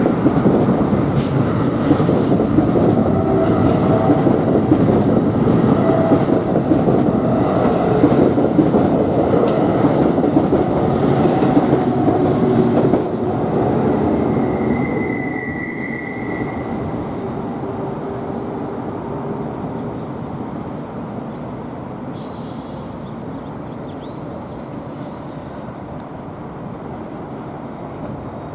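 Train running past on the North Jersey Coast Line: a loud rumble of wheels on rail for about thirteen seconds, then fading away, with brief high-pitched wheel squeal as it goes.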